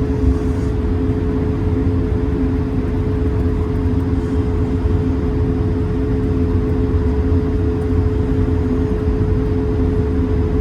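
Cabin noise inside an Airbus A220-300 with its Pratt & Whitney geared turbofans running: a steady low rumble under two steady engine hum tones, holding level with no rise or fall.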